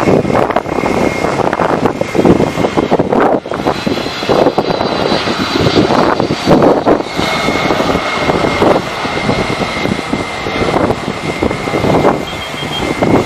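Airliner's engines running loud as the plane passes close by: a dense rush with a steady high whine over it.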